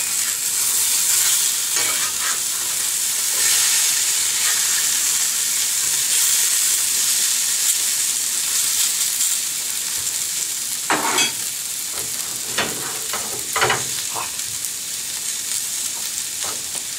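Diced potatoes and onions frying in a skillet with a steady sizzle, plus a few short scrapes of a metal spatula turning them in the pan a little past the middle.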